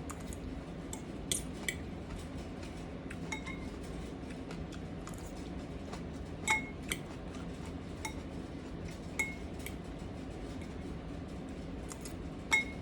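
A utensil clinking against a bowl while eating: a handful of light, separate clinks spread a second or more apart, over a steady low hum.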